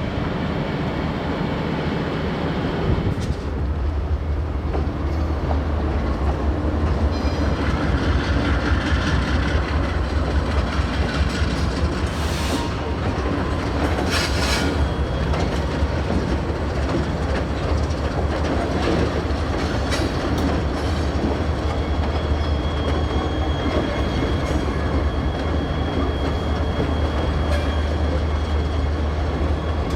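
Diesel freight locomotives moving slowly past, their engines running with a steady low rumble that comes in a few seconds in and wheels clattering over the rails. A thin high wheel squeal joins over the last few seconds.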